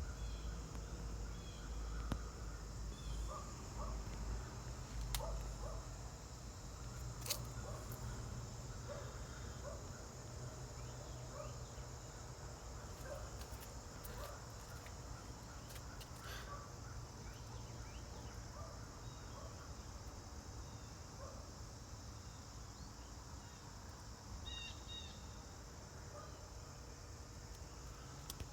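Quiet outdoor ambience: a steady low rumble with faint, scattered bird chirps and a few faint clicks.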